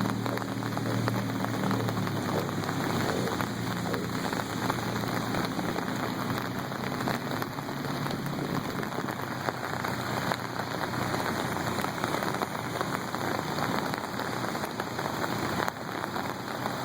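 Steady spattering and rushing of water, a dense patter of many small splashes, with a low hum that fades out in the first few seconds.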